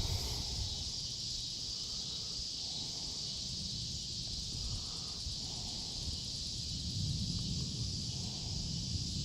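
Steady, unbroken high buzzing chorus of cicadas (the insects called locusts in the Midwest), with a low rumble underneath.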